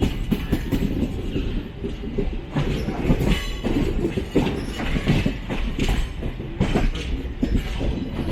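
Passenger train running along the track, heard from on board: a steady low rumble with the wheels knocking and clattering irregularly over the rails.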